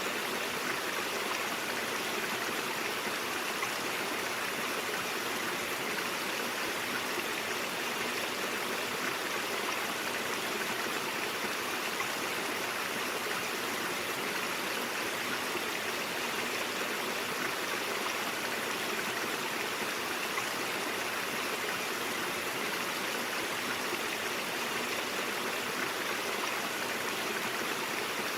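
A brook's water running steadily over rocks, a continuous even rushing with small gurgles.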